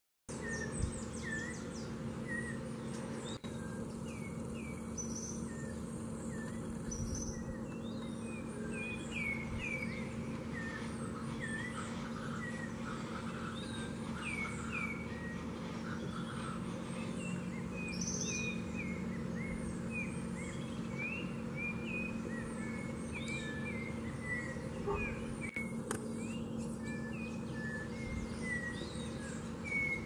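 Wild birds chirping: many short, quick calls, some rising and some falling, keep coming over a steady low hum and background noise.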